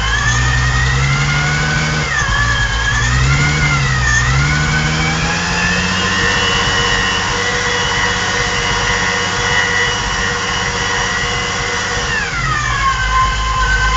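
Supercharged VW VR6 engine on its first runs after the build, revved off idle: the revs rise, dip and rise twice, then are held higher for about six seconds before dropping back to idle near the end. A high whine rises and falls with the revs.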